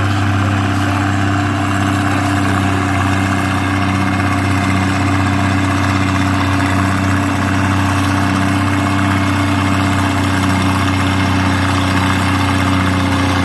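Antique farm tractor engine running steadily at low speed, a continuous low drone with no revving.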